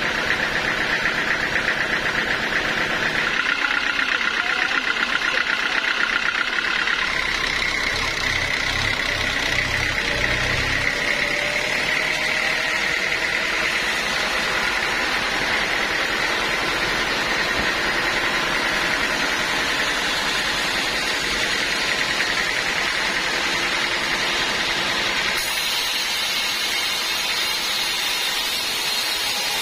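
Band sawmill running with a steady mechanical drone and a constant high whine.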